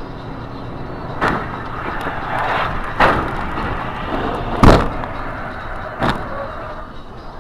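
Vehicle running, with four sharp bangs of a road collision; the third, about two-thirds of the way in, is the loudest.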